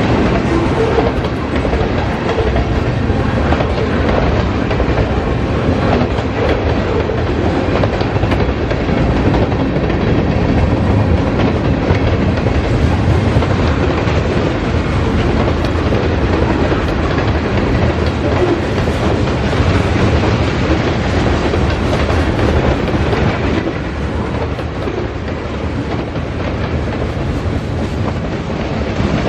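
Cars of a long CSX mixed freight train rolling steadily past, steel wheels on the rails with a continuous clatter, easing slightly near the end.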